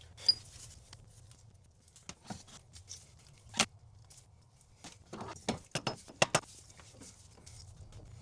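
Scattered light clicks and knocks of tools and car parts being handled during reassembly, with a close cluster of sharper ones about five to six seconds in.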